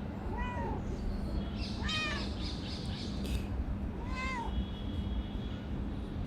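Calico cat meowing three times, short calls that rise and fall in pitch, spaced about two seconds apart, over a steady low background rumble and hum.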